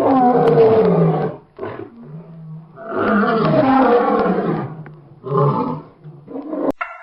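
A big cat roaring: two long roars, then a few shorter grunting calls, cut off suddenly near the end.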